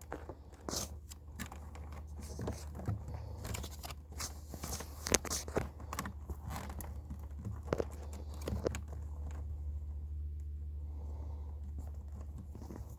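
Extension cords and plugs being handled and pulled apart: a string of sharp clicks, rattles and crackles for most of the first nine seconds, over a steady low hum.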